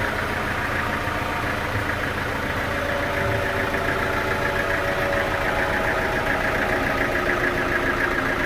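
Sawmill machinery engine running steadily at an even speed, with a pulsing, buzzing drone.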